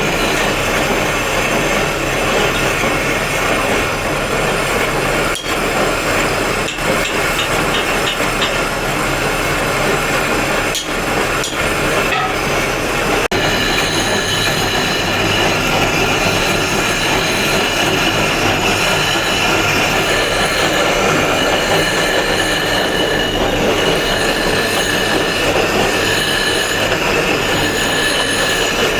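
A power tool working stone: a steady, loud mechanical noise with a high, squealing ring, whose tone shifts a little under halfway through.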